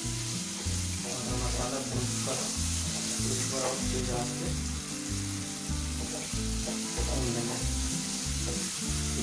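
Mushroom masala sizzling in oil in a nonstick kadhai while a wooden spatula stirs it, scraping against the pan now and then.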